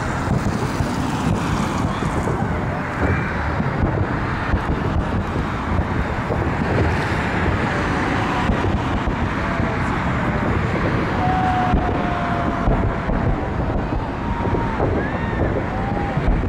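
Fireworks salute: a continuous barrage of aerial shells bursting, a dense rumble of bangs and crackle without a break. A few short whistling tones rise and fall in the second half.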